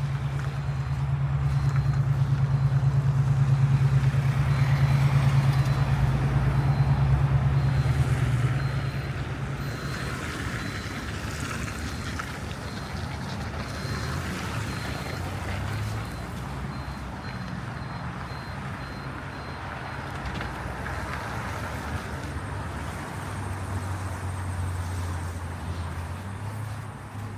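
City street traffic: a heavy vehicle's engine running close by, loudest for the first eight seconds or so and then easing off, with traffic noise beneath. A faint high beep repeats steadily through the first two-thirds.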